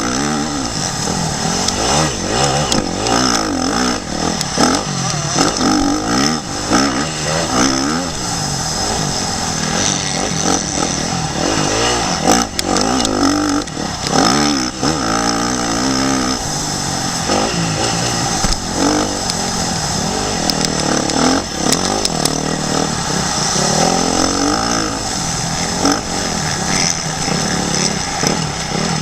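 Motocross bike engine revving hard and easing off again and again as the rider accelerates, shifts and brakes around the track, heard through a helmet-mounted action camera with heavy noise and knocks over it.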